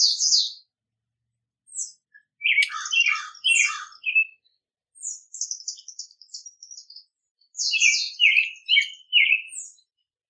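Wild songbirds chirping and singing in short, high phrases: a few quick chips at the start, then several louder phrases, including a fast run of high notes in the middle.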